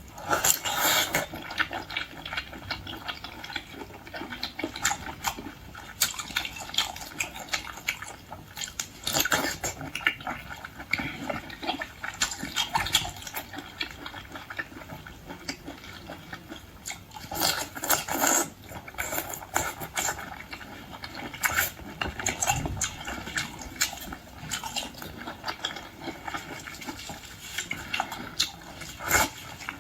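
Close-miked mukbang eating sounds: wet chewing, smacking and slurping of sea cucumber in red chili oil, in irregular bursts with louder clusters now and then.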